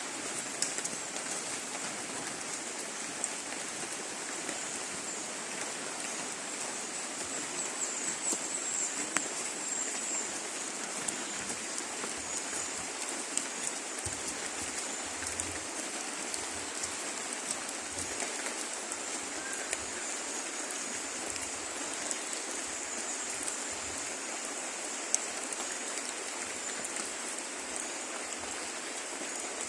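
Steady rain falling on teak leaves, a loud even hiss with scattered ticks of single drops.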